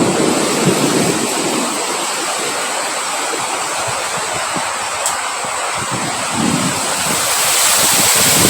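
Steady rush of rain and wind, swelling louder near the end.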